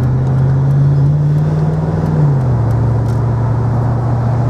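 Mercedes SL55 AMG's supercharged V8 pulling the car along the road, with tyre and road noise. The engine note climbs slightly, then drops about two seconds in.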